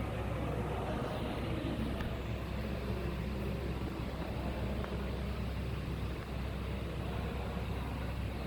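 Steady low machinery hum with a hiss over it, unchanging throughout.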